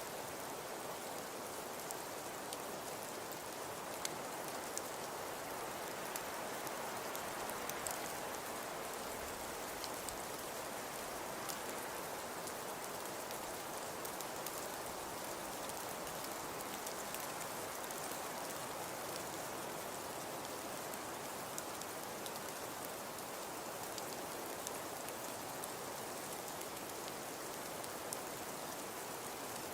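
Fireplace fire crackling: a steady soft hiss with scattered small pops and snaps.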